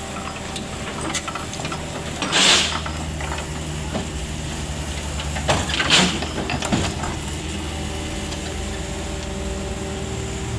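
Diesel engine of a Kobelco SK50-6 mini excavator running steadily. Two short, loud hissing bursts come about two and a half and six seconds in, with a few light knocks.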